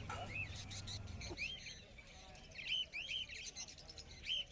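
Caged pet birds chirping: short, repeated arched chirps, some in quick runs of two or three, over a low background.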